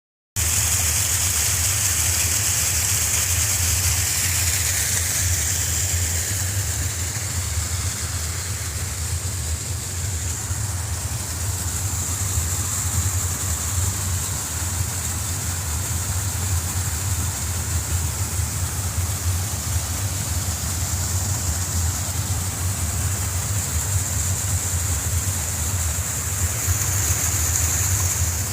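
Steady rush of fast-flowing river water, swollen by rain, with a deep low rumble under a high hiss.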